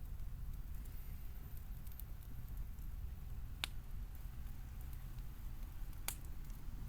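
Wood campfire burning over a low steady rumble, with faint ticks and two sharp pops, about three and a half seconds and six seconds in.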